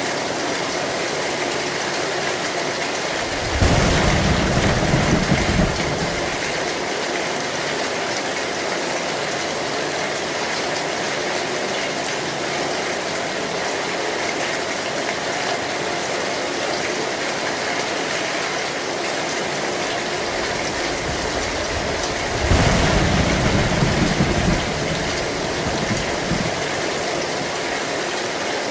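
Heavy rain falling steadily on an old tin roof, with two low rolls of thunder, one about three seconds in and one near the end, each lasting about two seconds.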